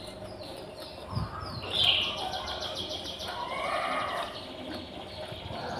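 Birds chirping: a run of short falling chirps, then about two seconds in a louder call followed by a fast, steady trill. A soft low thump a little over a second in.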